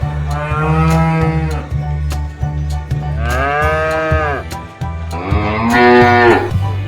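Cows mooing three times, each call a long moo that rises and falls in pitch, over background music with a steady bass beat.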